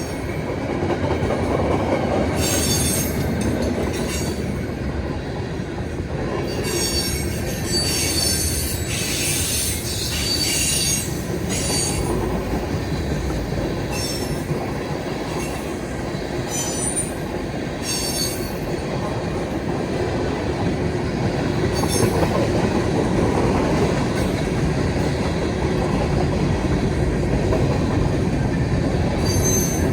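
Freight cars of a CSX manifest train rolling past with a steady rumble of wheels on rail, broken by repeated high-pitched wheel squeals. The squeals come and go, heaviest from about a quarter of the way in, then again now and then through to the end.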